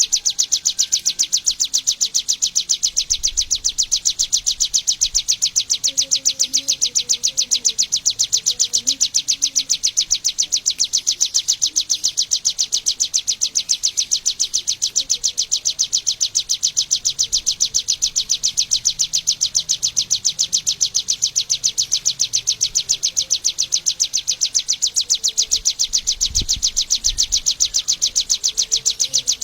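Bar-winged prinia (Prinia familiaris) chirping: high, rapid notes repeated evenly several times a second without a break.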